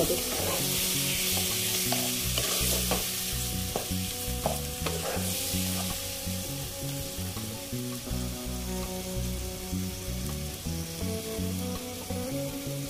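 Spice paste, potatoes and vegetable stems sizzling in oil in a nonstick pan while a spatula stirs and scrapes through them, frying the masala down. The scrapes come mostly in the first half, and the sizzle eases slightly toward the end.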